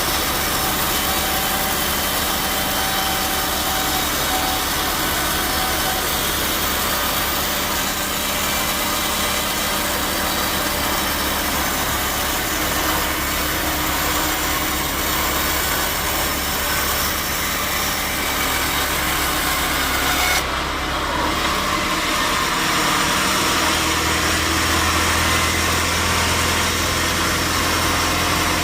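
Sawmill saw cutting through a teak log with its drive motor running steadily. About twenty seconds in the sound shifts, and a lower, steady engine hum takes over.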